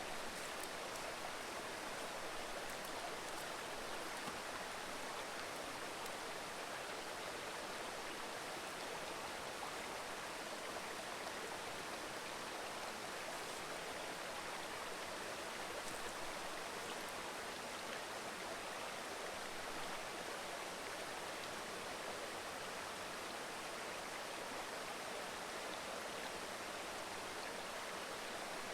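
Mountain river babbling steadily over rocks, an even rushing of water.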